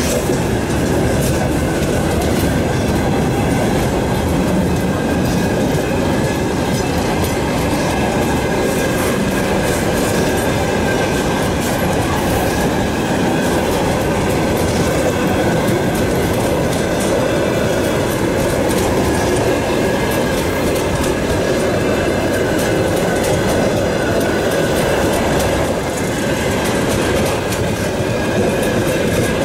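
Freight train wagons rolling past at close range: the steady, loud noise of steel wheels running on the rails.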